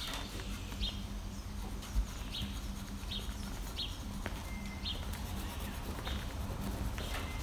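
A small bird chirping repeatedly, short high chirps about once a second, over a steady low hum, with a single low thump about two seconds in.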